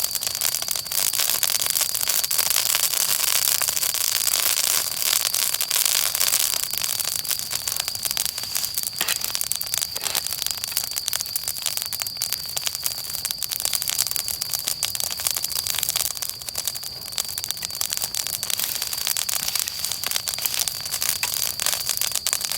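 Wood fire burning, a dense, continuous run of crackles and small pops over the hiss of the flames, with a faint steady high-pitched whine underneath.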